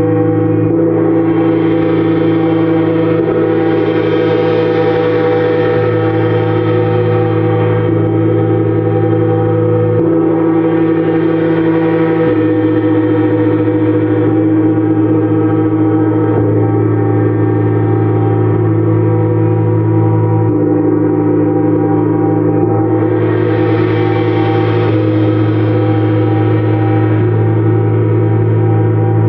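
Gongs played in a continuous sound-bath wash: many overlapping ringing tones held without break, swelling brighter a few times, about 4, 11 and 24 seconds in.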